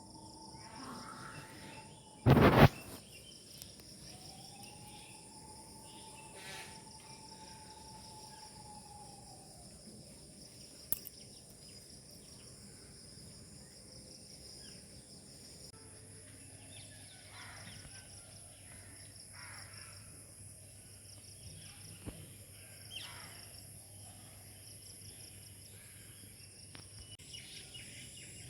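Steady, pulsing high-pitched insect chorus with a few scattered short bird calls, broken once about two seconds in by a brief loud sharp sound.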